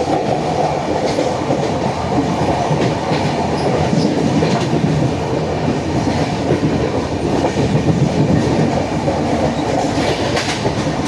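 Humsafar Express passenger train running along the track: a steady rumble with occasional wheel clicks.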